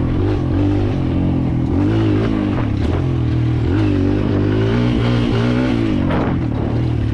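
Kawasaki KLX140L dirt bike's single-cylinder four-stroke engine running while riding, its pitch rising and falling several times as the throttle is opened and eased off.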